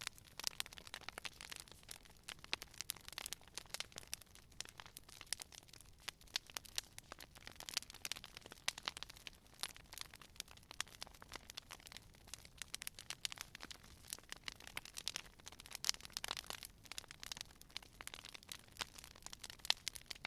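Campfire wood fire crackling and popping steadily, a constant stream of irregular sharp snaps over a soft hiss.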